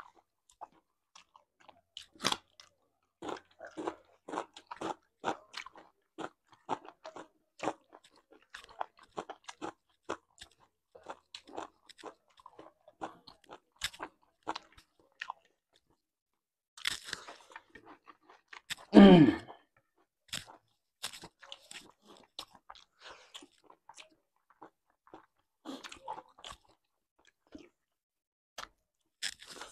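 Close-up chewing and crunching of food (pork, rice and raw vegetables such as cucumber and broccoli), heard as many short, crisp mouth clicks. About two-thirds through comes one short, loud, low throaty sound from an eater, the loudest moment.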